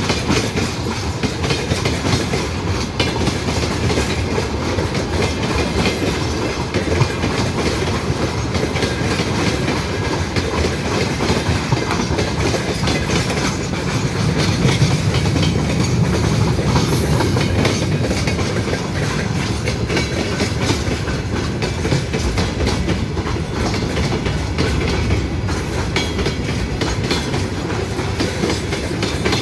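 A train passing close by, its wheels clattering steadily over the rail joints, with a brief high hiss about two-thirds of the way through.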